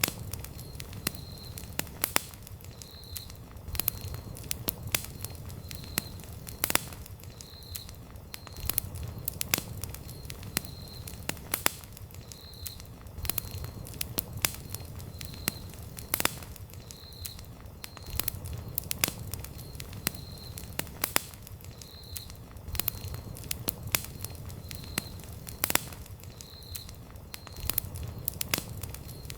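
Wood campfire burning, with irregular sharp crackles and pops over a low, steady rumble of flame. A faint short high chirp repeats about once a second throughout.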